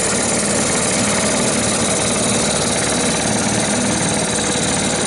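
Small outboard motor running steadily at an easy, low speed.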